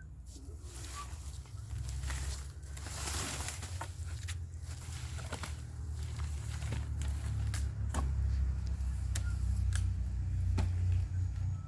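Low, uneven rumble of wind on the microphone, with scattered sharp cracks and snaps and a brief rustling hiss about three seconds in.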